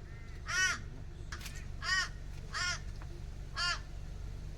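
A crow cawing four times at uneven intervals, each caw short and rising then falling in pitch. A steady low rumble runs underneath.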